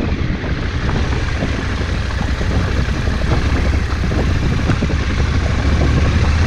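Vehicle under way at a steady speed: a low engine drone under a steady rush of wind and road noise.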